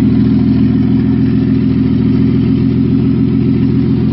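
BMW F80 M3's S55 inline-six, converted to a top-mount single turbo, idling steadily and evenly. It runs normally, with no check-engine codes even though its wastegates are unplugged.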